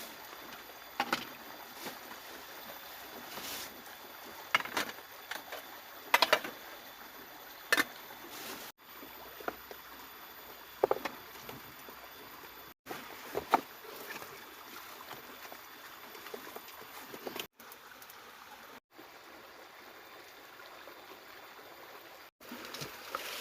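Steady rushing water noise with about a dozen short sharp knocks or splashes scattered through it, broken by several abrupt cuts.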